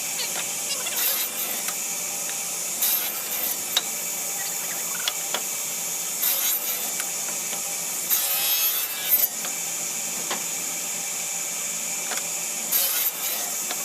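A hand tool scraping or sawing wood in short, separate bouts of strokes, with small knocks between them, over a steady high hiss.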